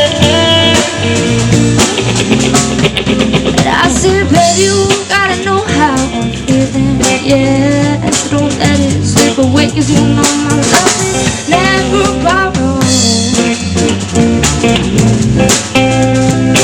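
Live band playing with drum kit and guitar, the lead line wavering and bending in pitch over a steady beat.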